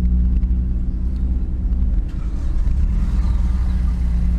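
Car engine idling steadily, a low hum heard from inside the cabin.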